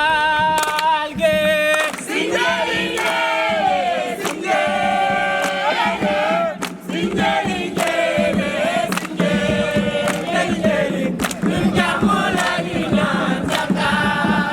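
A group singing a chant together, with sharp strikes keeping time.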